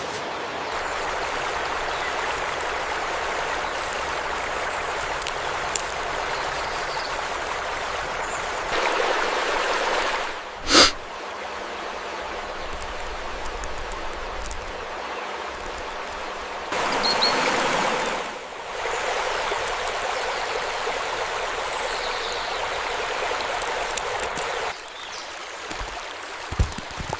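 Stream water running with a steady rush, its loudness and tone shifting abruptly several times. A single sharp click about eleven seconds in.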